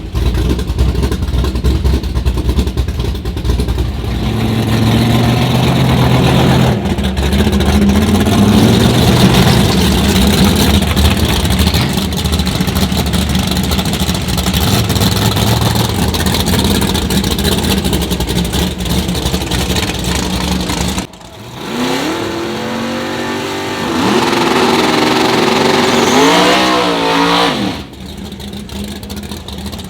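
Loud V8 car engine running, then after a sudden drop in level, revved up and down several times near the end.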